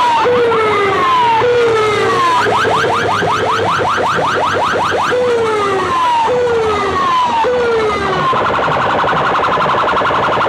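Electronic siren and car-alarm effect tones played loud through a competition sound system's speakers: falling sweeps repeating about once a second, a stretch of rapid rising chirps, and a fast warble about eight seconds in.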